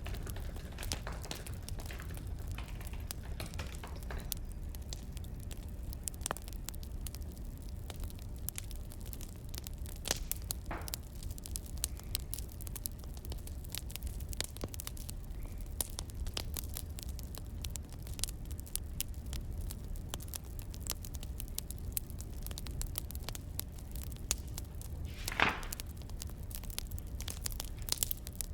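Wood fire crackling, with irregular sharp pops over a low steady rumble and one louder pop about 25 seconds in.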